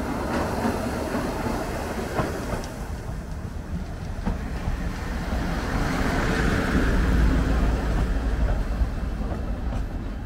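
Oigawa Railway Ikawa Line passenger train rolling into the station along the platform: a steady rumble with wheel clicks over the rail joints. It is loudest as the carriages pass close by, from about six seconds in.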